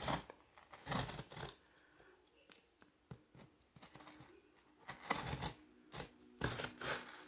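A knife cutting through a cardboard box in several short scraping strokes, with a quieter pause in the middle.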